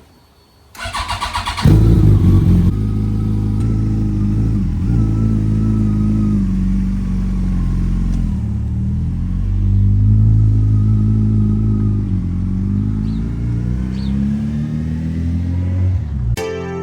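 Yamaha FJR1300's inline-four engine being started: about a second of rapid starter cranking, then it catches. It runs on with the revs rising and falling.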